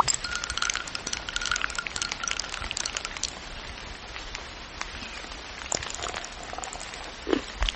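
Crunchy eating sounds: a dense run of crisp crackling clicks for about three seconds, then sparser crunches.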